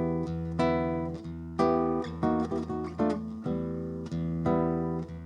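Solo acoustic guitar playing an instrumental introduction: chords plucked and strummed every half second to a second, each ringing out before the next.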